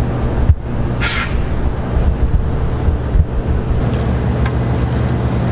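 Steady low machinery hum, with a sharp knock about half a second in and a brief scraping rattle about a second in.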